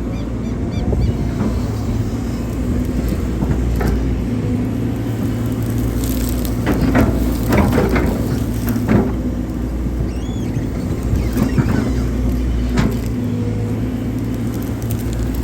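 Hydraulic excavator's diesel engine running steadily while it digs a ditch, with several sharp knocks from the bucket and arm working, most of them between about halfway and two thirds of the way through.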